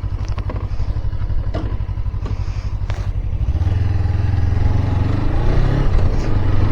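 Suzuki Inazuma GW250 motorcycle's 250cc parallel-twin engine running, getting louder about halfway through, with a few sharp clicks in the first three seconds.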